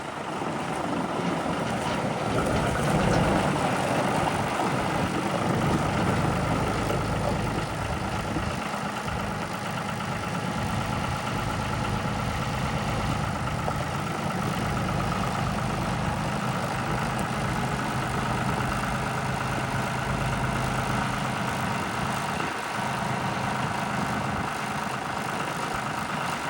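John Deere 5055D tractor's three-cylinder diesel engine idling steadily, a little louder a few seconds in.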